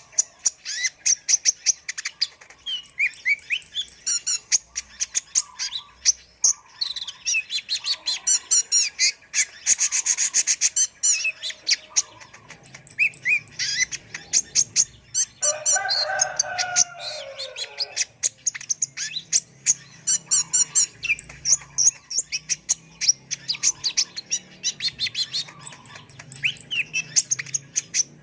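Kolibri ninja sunbird singing a fast, continuous run of high chirps and trills. A short lower run of falling notes comes a little past the middle.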